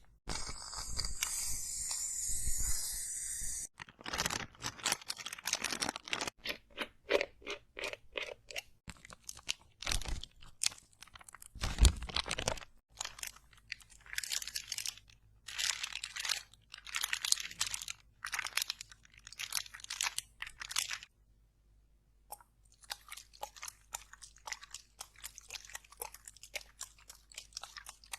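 Close-miked crunching and crackling ASMR trigger sounds for pimple squeezing: a dense run of short crisp clicks and crunches, with a steady hiss in the first few seconds and a brief pause about three-quarters of the way through.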